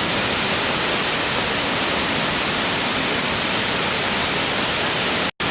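Waterfall, a steady rushing of falling water with no change in level. It cuts out for an instant near the end, then carries on.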